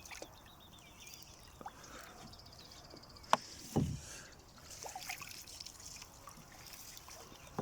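Water trickling and dripping, with small scattered ticks. There is a sharp click about three seconds in and a dull knock just after it.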